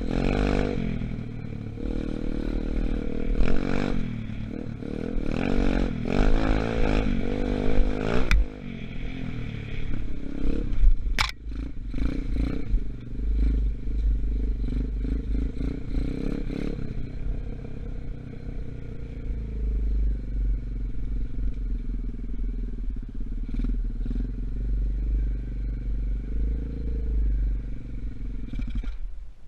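125cc Gunshot dirt bike engine running under way, its revs rising and falling for the first several seconds and then holding steadier. The engine is still being run in. A heavy low rumble of wind on the microphone runs under it, with a single sharp click about eleven seconds in.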